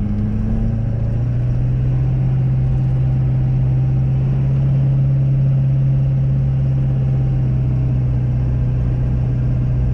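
Ford Super Duty's 6.7 L Power Stroke diesel V8 running steadily under light load as the plow truck drives, its low drone stepping up slightly in pitch about a second in and then holding.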